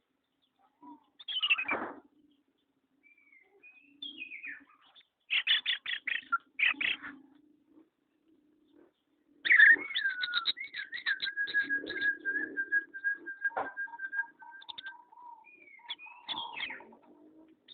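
Pet songbird calling: scattered chirps and short downward-sliding whistles, then about halfway through a loud burst that settles into a long, fast trill on one note lasting several seconds.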